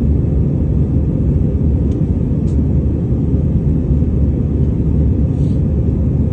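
Steady low rumble of an airliner's engines and rushing air heard inside the passenger cabin, with a few faint ticks.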